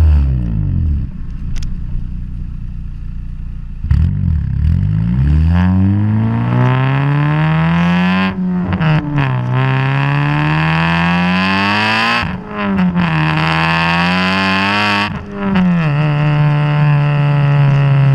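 Exhaust of a supercharged 2014 Honda Civic Si's 2.4-litre four-cylinder through a Vibrant muffler: revs fall, then climb hard, with three brief dips where the pitch drops and climbs again, as at gear changes, before holding steady near the end.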